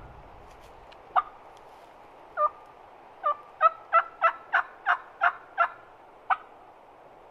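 Hen turkey yelps blown on a diaphragm mouth call: a couple of single yelps, then a loud run of about eight yelps at roughly three a second, and one last yelp, each note breaking from low to high. This is calling to draw an answering gobble from a tom.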